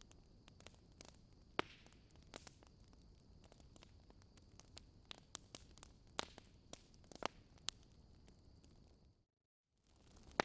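Wood fire crackling: irregular sharp pops and snaps over a faint steady hiss. The sound cuts out completely for about half a second near the end.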